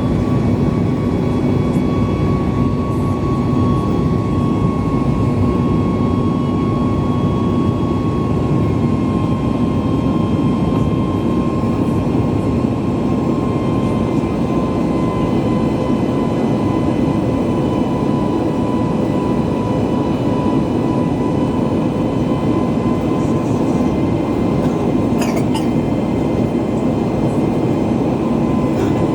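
Cabin noise aboard a Boeing 737 MAX 8 with its CFM LEAP-1B engines running: a loud, steady rumble and rush with a high engine tone that slowly drops a little in pitch. There are a couple of faint clicks near the end.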